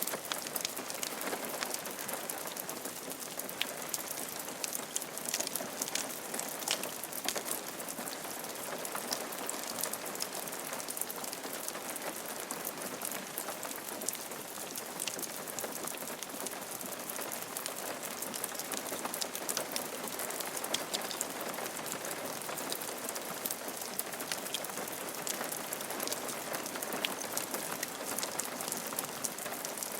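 Steady rain falling on a roof, an even patter with many separate drops ticking sharply.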